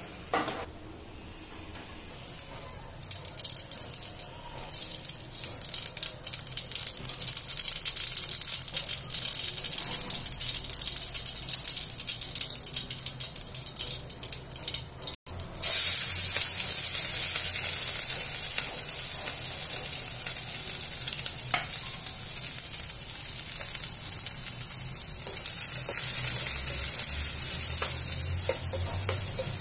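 Mustard and cumin seeds crackling and popping in a hot steel kadai, the pops growing denser. About halfway through, a sudden loud sizzle as chopped onions and green chillies hit the hot oil, then steady frying with a spatula stirring in the pan.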